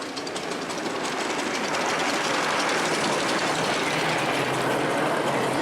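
Miniature railway train running along the track, with a steady rolling noise and a fast, even clatter of wheels over the rails.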